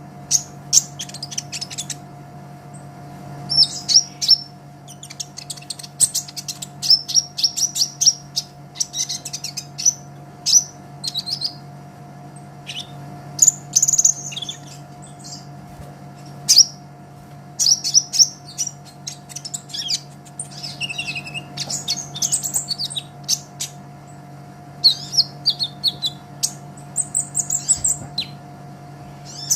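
Olive-backed sunbird (kolibri ninja) singing actively in bursts of rapid, high, thin chirps and trills with short pauses between them. A steady low hum runs underneath.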